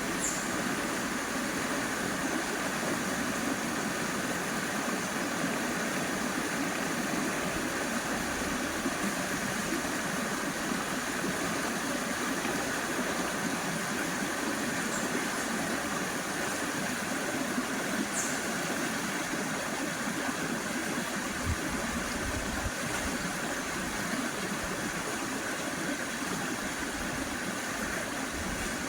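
Shallow forest river flowing over rocks: a steady rushing and burbling of water.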